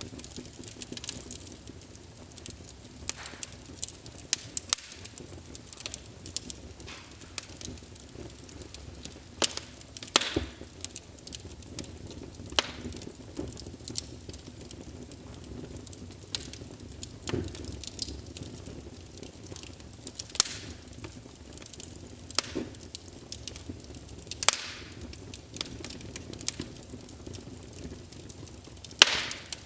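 Wood fire burning in a fireplace, crackling with irregular sharp pops over a low, steady sound of the flames; a few pops stand out much louder than the rest.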